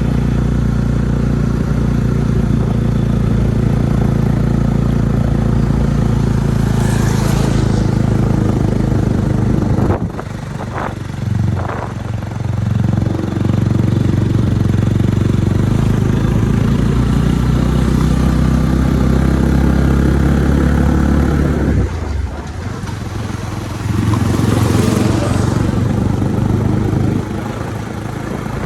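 Motorcycle engine running steadily under way, easing off twice, about ten seconds in and again past twenty seconds, then picking up again. A hiss swells and fades twice over the engine.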